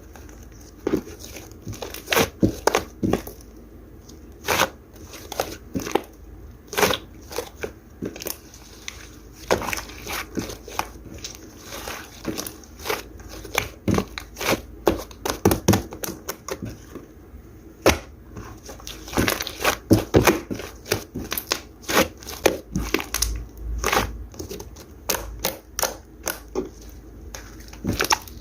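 Objects being handled at close range: irregular crinkling, tearing and light taps, like paper or plastic packaging being worked with the hands.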